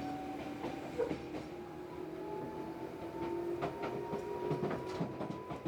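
Tobu 8000 series electric train running, heard from inside the car: the traction motors hum in two tones that rise slowly in pitch as the train gathers speed, with scattered clicks from the wheels over the track.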